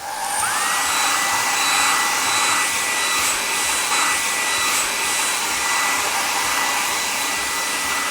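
Electric blower sound effect, like a car-wash air dryer: a steady rush of air with a motor whine that rises in the first half second and then holds one pitch, cutting off near the end.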